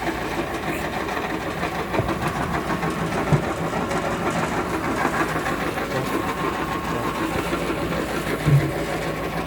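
Screw briquette press for 65 mm pini-kay fuel briquettes running steadily, its motor and auger giving a constant mechanical din, with a short knock about three seconds in and a louder one near the end.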